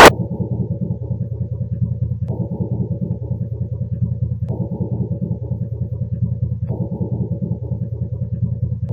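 Floor impact noise heard through a concrete floor slab: a rapid, even run of knocks like a standard tapping machine, muffled so that only the low thudding part comes through.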